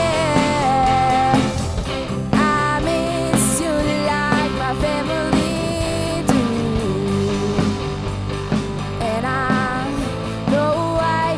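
Live rock band playing a song: guitars, bass and drums with a sung melody.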